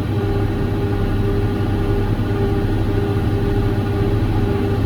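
John Deere 7410 tractor's diesel engine running at a steady speed while it powers a John Deere 468 round baler, a constant low hum with a held mid tone over it.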